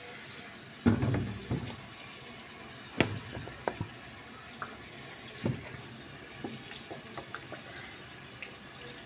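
Cooking oil poured into a pot of rice and water, with sharp knocks and clinks of cookware about one, three and five and a half seconds in and lighter ticks between.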